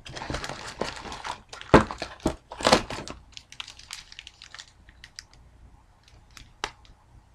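Sealed trading card packs crinkling and rustling as they are handled and pulled from a cardboard box, with a few sharp taps and clicks. The handling is busiest for the first three seconds, then thins to occasional light taps.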